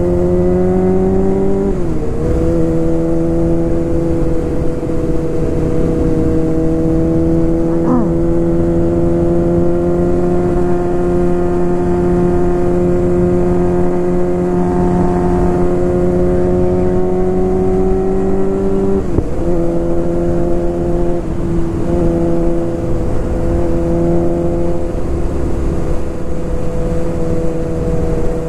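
Suzuki GSX-R 600 sport bike's inline-four engine running at steady cruising revs, over wind rush on the helmet camera. The engine note dips briefly about two seconds in, then creeps slowly upward before dropping to a lower, steady pitch about two-thirds of the way through.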